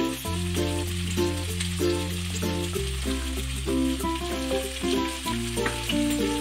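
Onions and tomato frying in oil in a wok with a steady sizzle, under louder background music whose bass note changes every couple of seconds.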